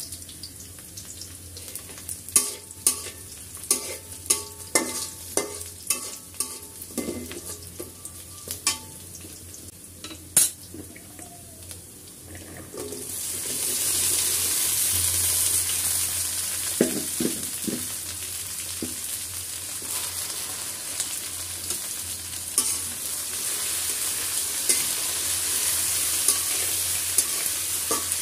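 Sliced onions frying in oil in a metal wok, a metal spatula scraping and clacking against the pan as they are stirred. About thirteen seconds in the sizzle jumps much louder and stays loud as chopped okra goes into the hot oil and is stirred, with the odd clack of the spatula.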